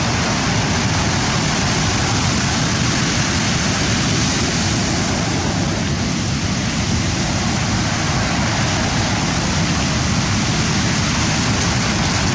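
Surf of a rough sea, a steady loud wash of noise with no separate wave breaks standing out.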